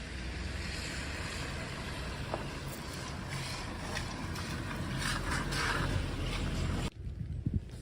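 Steady outdoor background rumble with a hiss above it, swelling slightly about five seconds in and then cutting off abruptly about seven seconds in.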